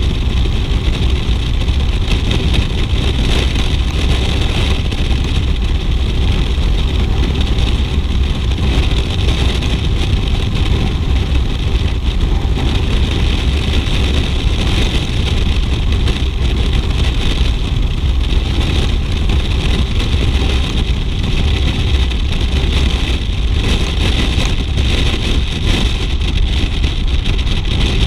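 BMW R 1200 GS motorcycle under way: its flat-twin engine running steadily beneath a continuous rush of wind on the microphone.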